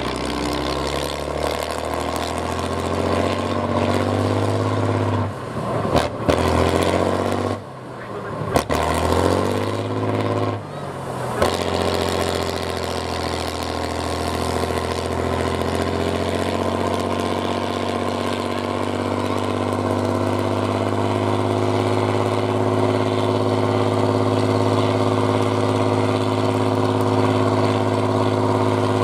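Truck engine working hard, its pitch rising and falling with the throttle. It drops back briefly a few times between about six and eleven seconds in, then holds a steady drone that climbs slowly.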